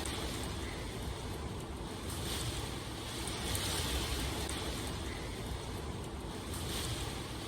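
Steady rushing water ambience, a soft hiss that swells and fades every couple of seconds over a low rumble.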